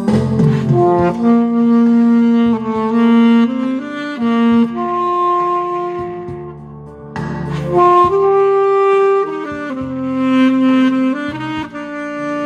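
Instrumental music: a saxophone plays a slow, held-note melody over a backing track. One phrase ends and the next begins about seven seconds in.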